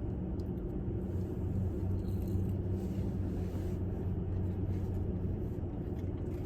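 Car engine idling, a steady low hum heard from inside the car's cabin.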